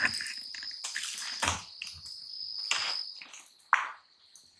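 A steady, high-pitched insect trill that stops about three seconds in, with several scattered knocks and rustles over it.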